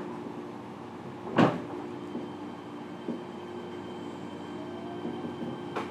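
Fukuoka City Subway 1000N-series electric train running, heard inside the passenger car: a steady hum with a few held tones. A single loud knock comes about a second and a half in, a lighter click halfway through, a faint rising whine near the end, and then a sharp click.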